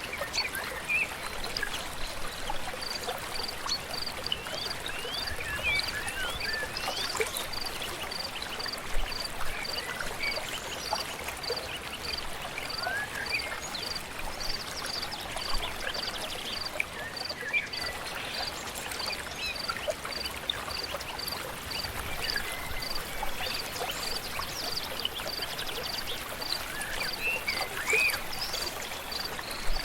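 Stream flowing steadily, with scattered bird chirps and whistles over it. From about three seconds in, a high note repeats evenly, a little under twice a second.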